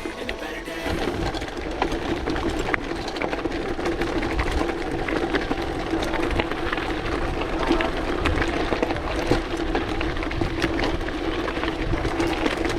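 Gravel bike riding over a rough gravel road: a continuous crunch and rattle of tyres on loose stones and the bike shaking, with many small clicks and a steady hum underneath.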